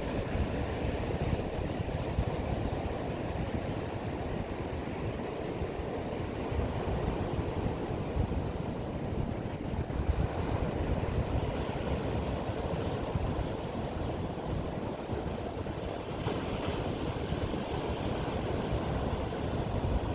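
Steady rush of heavy ocean surf breaking on a beach, with wind buffeting the microphone.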